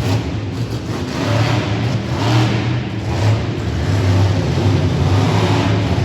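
Monster truck engine revving hard and running under throttle, its level swelling and easing repeatedly.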